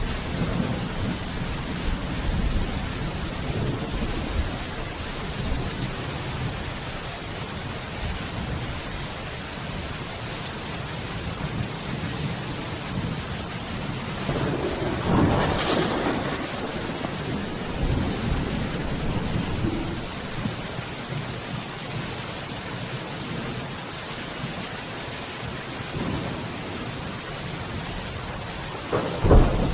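Steady rain falling through a thunderstorm, with low rumbles of thunder in the first few seconds, a louder peal about halfway through, and a sharp, close crack of thunder just before the end.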